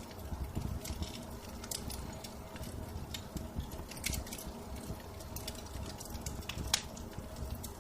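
Wood fire in a fireplace crackling, with irregular sharp pops over a low steady rumble; one louder pop near the end.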